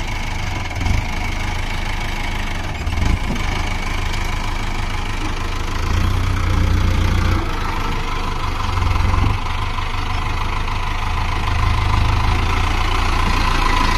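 Tractor engine running steadily, swelling louder several times as it works.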